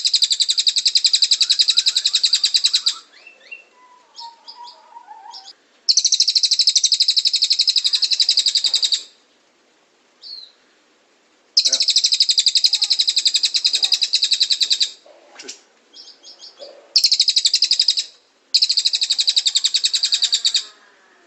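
Cililin bird singing: long, loud, very rapid high trills of about three seconds each, five in all, separated by softer chirps and short notes.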